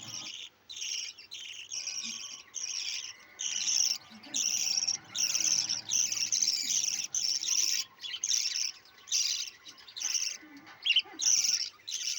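Budgerigars chirping and chattering in a run of short, high bursts with brief gaps between them.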